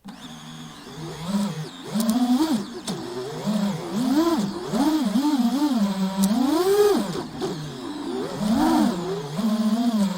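FPV quadcopter's brushless motors and propellers whining, the pitch rising and falling again and again with throttle changes, over a rush of air noise. It starts quieter and gets louder about two seconds in.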